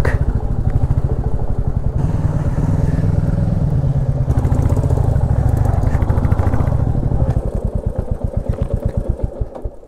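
Royal Enfield Classic 350 single-cylinder engine running at low speed with its steady thump, then shut off about seven seconds in, its beats spreading out and dying away as the engine stops.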